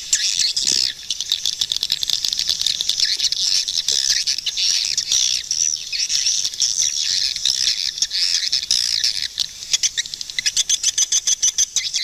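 Swiftlets chirping and twittering in a dense, unbroken chorus of high calls, mixed with rapid trains of clicks that grow busiest near the end.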